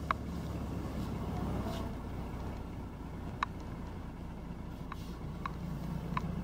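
Cab interior of a 1990 Dodge Ram pickup with the 5.9 Cummins 6BT turbo diesel running at steady, gentle road speed, its engine not yet warmed up. There is a steady low drone with a few faint ticks.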